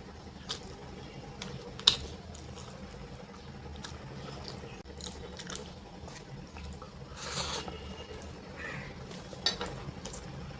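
Wet eating sounds of rice and dal: squishing and smacking, with scattered sharp clicks, the loudest about two seconds in and another near the end.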